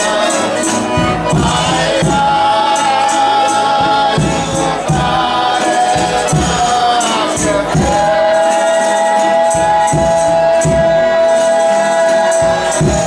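Folia de Reis folk singing: voices sing together over steady drum beats and shaken tambourines. In the second half a voice glides down and then holds one long high note to the end.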